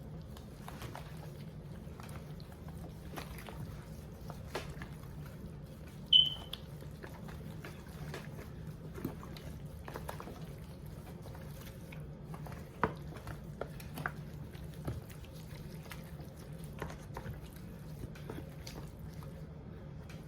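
Gloved hands handling seasoned raw chicken legs: scattered soft clicks and squishes over a steady low hum. One short high-pitched squeak about six seconds in is the loudest sound.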